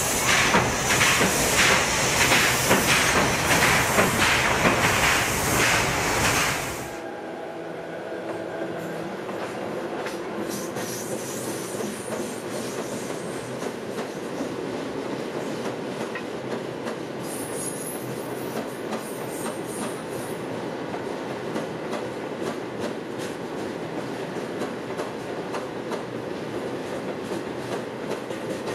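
Oigawa Railway passenger train running over the Ieyama river bridge, its wheels clacking steadily over the rail joints. A loud rushing noise fills the first seven seconds and cuts off abruptly.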